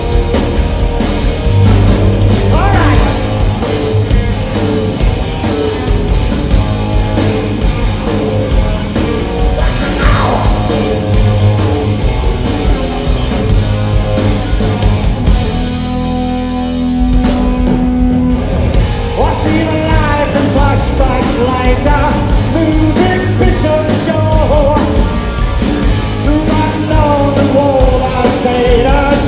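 Rock band playing live: electric guitars, bass and drums at full volume, with rising pitch bends early on. About two-thirds through the band drops back to a single held low note for a couple of seconds, then crashes back in with a bending melodic lead line over it.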